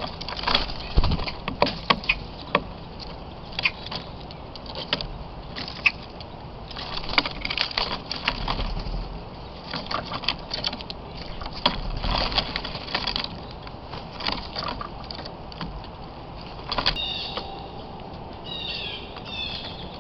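Birds close to the microphone: scattered sharp taps and rustles throughout, with a few short repeated chirping calls near the end.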